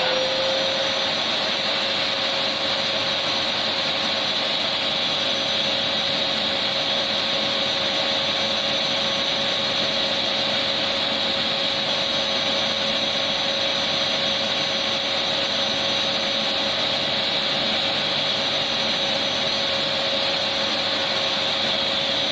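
Vacuum cleaner running steadily: an even, loud rushing hiss with a constant whine under it, no change in speed.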